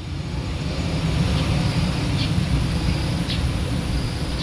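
Low, steady rumble of a jet airliner's engines, building slightly over the first second.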